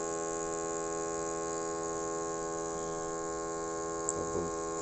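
Small air pump of an Omron HEM-7111 digital blood pressure monitor running with a steady buzzing hum, pumping freely because no cuff is attached.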